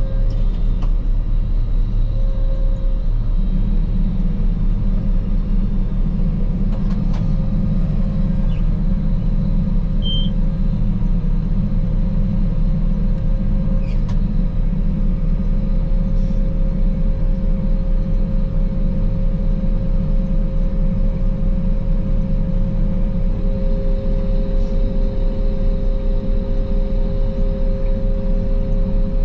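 Claas Lexion 480 combine harvester running steadily while harvesting rapeseed: a constant low drone of engine and threshing machinery with a steady hum over it, and a few faint clicks.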